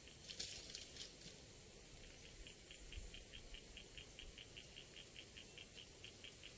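Near silence with a faint, fast, even ticking, about five pulses a second, starting about two seconds in, after a brief soft rustle near the start.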